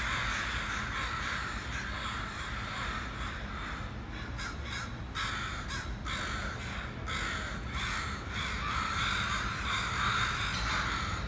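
A large flock of crows cawing together, many overlapping calls blending into one continuous chorus.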